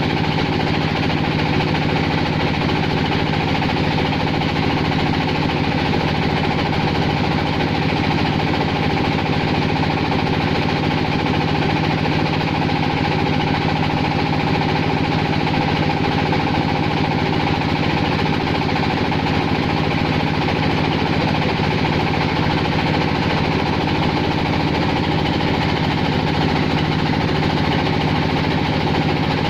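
Clay-processing machine for roof-tile making running steadily, with a rapid, even mechanical clatter.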